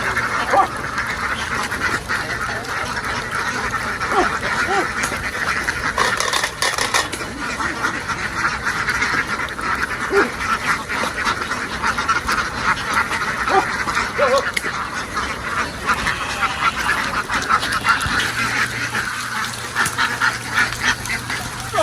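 A large flock of domestic ducks quacking continuously, many calls overlapping into a dense chorus.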